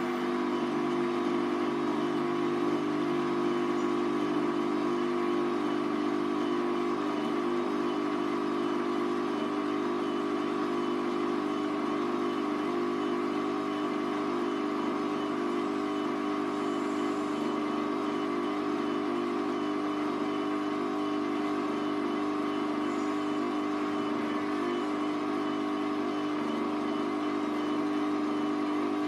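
Hoover Vision Tech washing machine running a mixed 40°C wash, its drum motor giving a steady hum with a constant low whine and no breaks.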